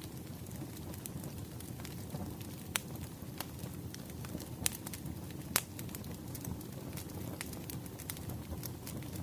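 Firewood burning and crackling: a steady low rumble of flames with sharp pops scattered irregularly, three louder pops in the middle.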